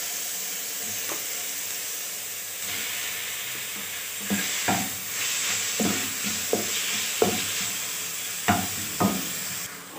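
Raw chicken mince sizzling in hot oil with fried onions and ginger-garlic paste in a nonstick wok as it is added. From about four seconds in, a spatula scrapes and taps against the pan every half second or so as the mince is stirred.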